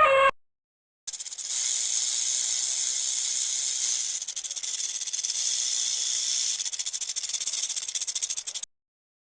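A snake hissing: a steady high-pitched hiss of about seven seconds that flutters rapidly in its second half and cuts off suddenly.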